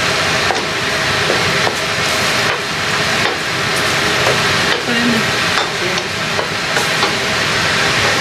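Chopped onions and masala frying in oil in a metal wok, sizzling steadily, while a wooden spoon stirs and scrapes across the pan in repeated strokes.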